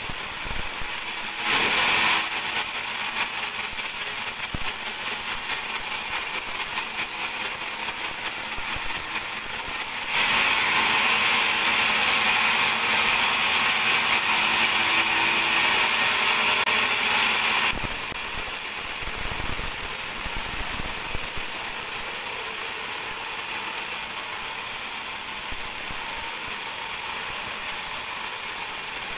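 Band sawmill running steadily. From about ten seconds in to nearly eighteen seconds in, a louder, higher-pitched cutting noise is heard as the blade saws through a teak log.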